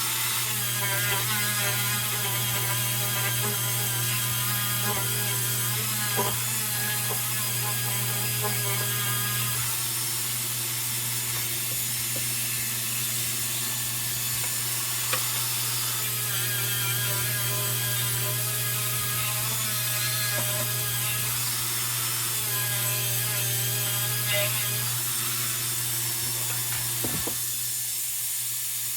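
Small power tool running steadily as it polishes steel with 800-grit abrasive, a constant motor hum with the rasp of the abrasive on metal.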